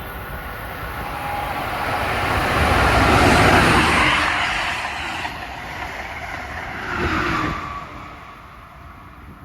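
A train passing through the station at speed: a rushing noise that swells to a peak about three seconds in and then fades away.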